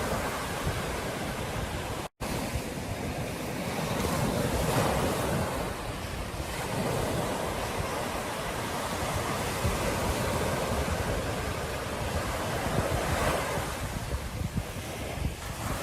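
Ocean surf washing onto a beach, swelling and easing over several seconds, with wind rumbling on the microphone. The sound cuts out completely for an instant about two seconds in.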